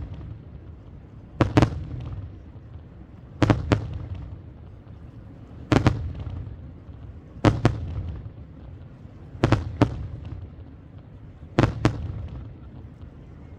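Aerial fireworks shells bursting in the sky, six times at about two-second intervals. Each burst is a quick double bang, with a low rumble carrying on between them.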